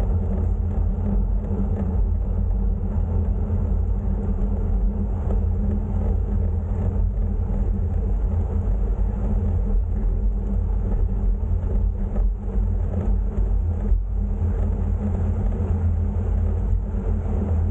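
Steady low rumble of wind and road noise on the microphone of a camera riding along on a bicycle climbing a hill.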